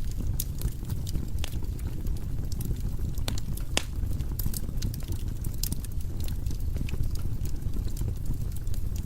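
Firewood burning in a fireplace: a steady low rumble of the flames with irregular sharp crackles and pops, one louder snap a little before the middle.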